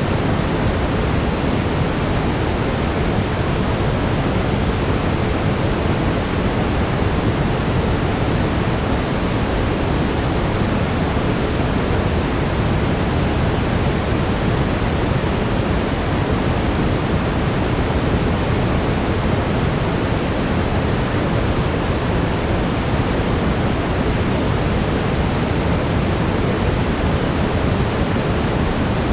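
Steady synthetic brown noise: an even, deep hiss, heaviest in the low end, with no change in level.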